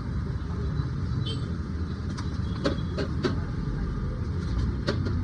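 Roadside food-stall ambience: a steady rumble of street traffic with a few sharp metallic clinks, about five, in the middle and near the end.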